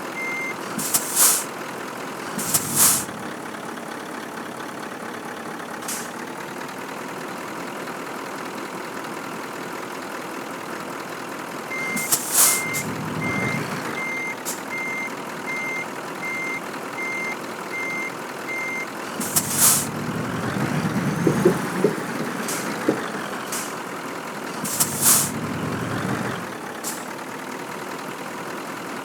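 Scania truck reversing: its reversing alarm beeps about twice a second in two spells, with several short air-brake hisses over the steadily running engine.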